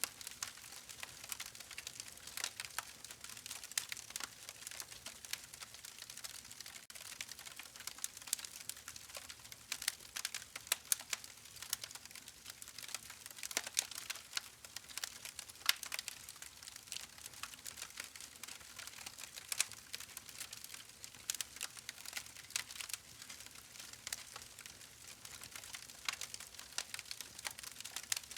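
Campfire burning, its wood crackling in many quick, irregular snaps and pops over a soft hiss.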